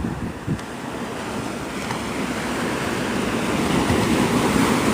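Gulf surf washing onto the beach: a steady hiss of waves that swells over the second half and eases near the end, with wind on the microphone.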